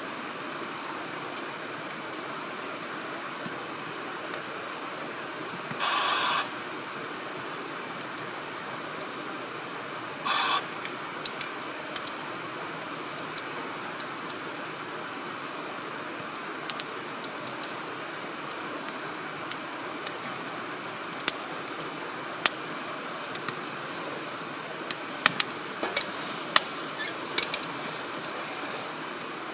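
Wood fire burning in a fire grill: a steady hiss of flames with scattered sharp crackles and pops from the firewood, coming thicker near the end. Two brief louder rasping sounds stand out, one about six seconds in and one about ten seconds in.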